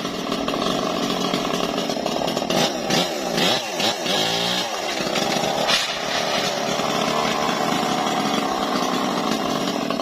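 Homemade mobile circular sawmill running and cutting a trembesi log. Its engine note is steady, then dips and recovers a few times between about three and five seconds in.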